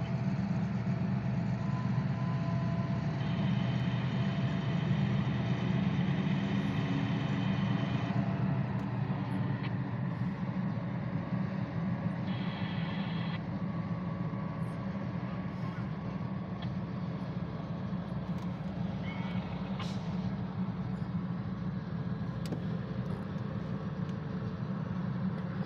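Diesel freight train running, a steady low rumble throughout. High thin whines sound over it, one for several seconds from about three seconds in and a shorter one about twelve seconds in.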